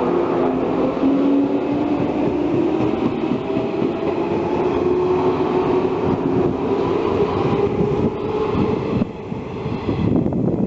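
Local electric train running past, its motors giving a steady slowly rising hum, then its wheels clattering over the rail joints in a quick rhythm in the later seconds.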